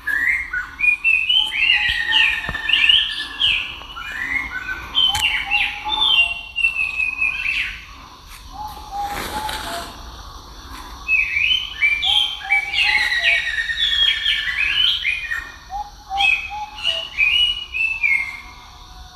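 Birds chirping and singing in quick, repeated phrases of chirps and trills, easing off for a few seconds about eight seconds in before starting up again.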